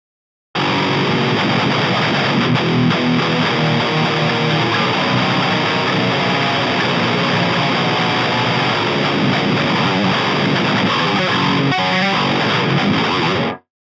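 Ibanez Iron Label 7-string electric guitar played through the Amp Locker AHM 5050 amp-sim plugin, a heavily distorted high-gain metal riff. It starts about half a second in and stops abruptly near the end.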